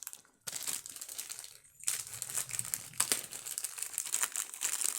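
Packaging crinkling and rustling as it is handled: a dense run of quick crackles that starts about half a second in and grows busier after about two seconds.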